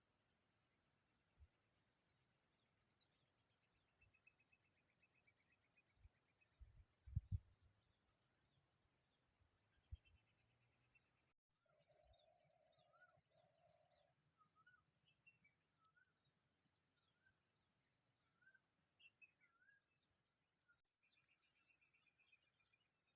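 Faint, steady, high-pitched drone of insects, with scattered short bird chirps over it and a few low thumps about seven seconds in.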